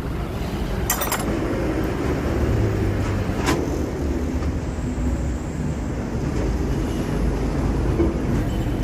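Steady low rumble of a running motor vehicle engine, with sharp clicks or knocks about a second in and again at about three and a half seconds.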